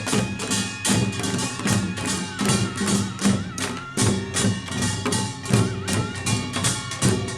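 Korean pungmul farmers' band playing in the Jeolla Jwado style: small gongs, drums and cymbal-bright strikes in a fast, dense, driving rhythm, with a faint wavering high melody line above.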